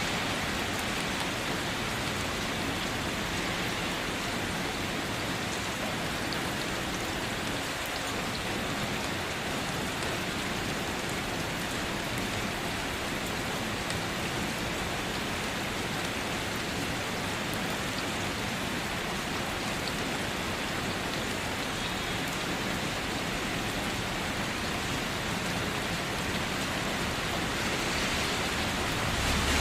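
Steady rain drumming on a car body: a dense, even patter of drops with no pauses.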